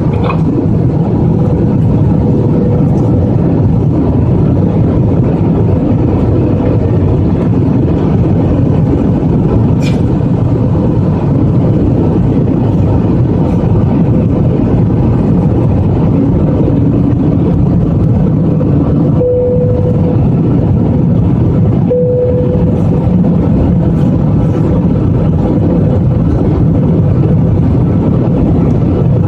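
Steady engine and airflow noise of an airliner in flight, heard from inside the passenger cabin, with a constant hum running through it.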